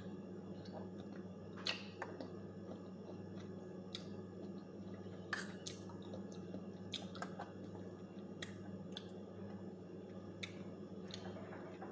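A person chewing crunchy unripe sour mango: irregular crisp crunches and clicks, roughly one every second or so. A steady low hum runs underneath.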